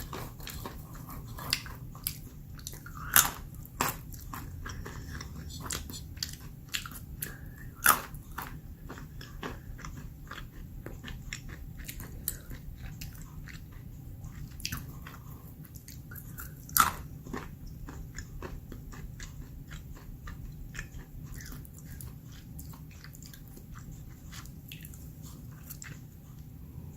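A person chewing almonds: a run of sharp crunches, with a few much louder cracks as almonds are bitten, thinning out over the last several seconds.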